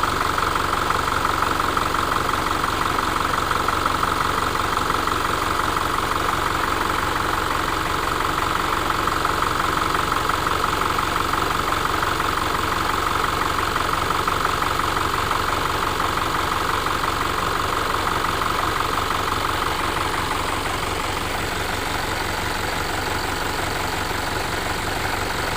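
Engine idling steadily with engine flush added to its oil ahead of an oil change, easing slightly about twenty seconds in.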